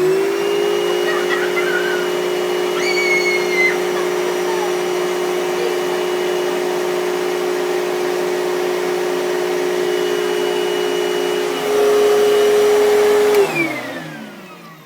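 Household vacuum cleaner switched on and running with a steady whine. About twelve seconds in it gets slightly louder and higher, then it is switched off and winds down with a falling pitch.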